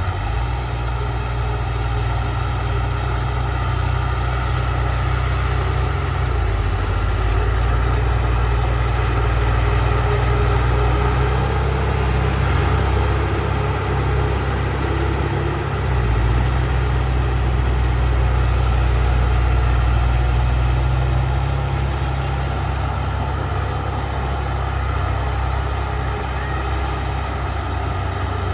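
Heavy diesel engine of earthmoving machinery running steadily with a deep rumble. It rises and falls in strength a few times as the load changes.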